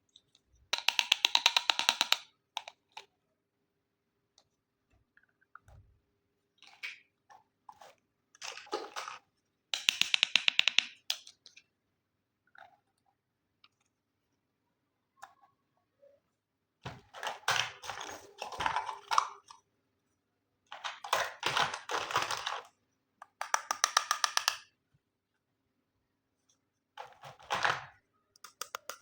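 Handling of plastic toy packaging: short bursts of rapid crackling, about seven of them, separated by quiet pauses.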